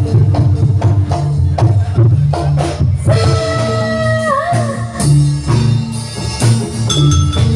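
Live campursari music played through a PA system: a steady beat of kendang hand-drum strokes over bass, with a melody line that slides between notes coming in about three seconds in.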